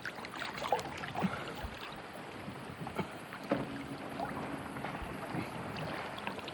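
Outdoor ambience of wind and water noise with faint, indistinct voices. A steady low hum comes in about halfway through and lasts a second or so.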